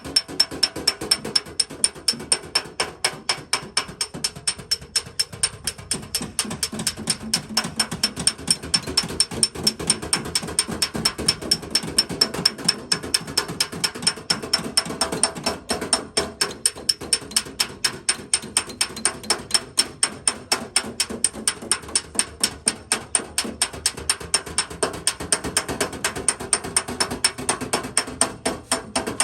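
Rapid, even tapping or clicking of a dent-repair tool on the car body, about four strikes a second, keeping up without a break.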